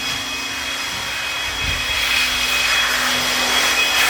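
Motor-driven cleaning equipment running steadily: an even whirring hum with a hiss of rushing air or spray, growing a little louder partway through.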